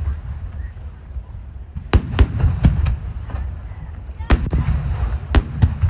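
12-inch (shakudama) aerial firework shells bursting in rapid succession. A cluster of three sharp booms comes about two seconds in, then pairs of booms at about four and a half seconds and near the end, over a continuous low rumble of echoing blasts.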